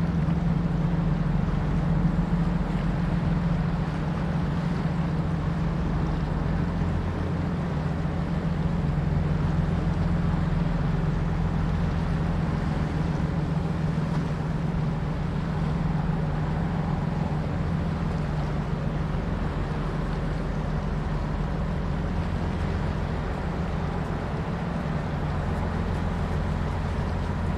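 Engine of a river sand-carrying boat running with a steady, low drone.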